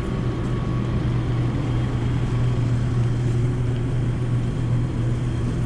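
A steady low mechanical hum, like a motor running continuously.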